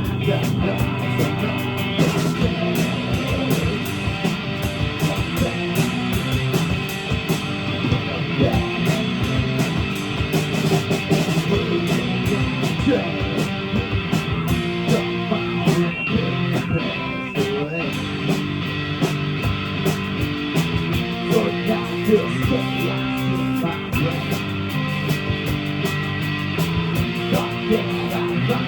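A live rock band playing a guitar-driven passage with a steady beat.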